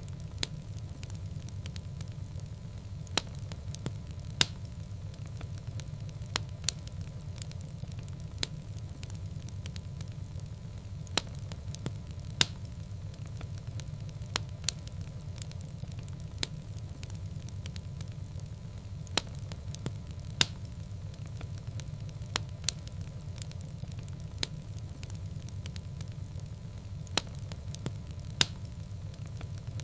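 Fire burning in a fireplace, crackling with irregular sharp pops, several every few seconds, over a steady low rumble.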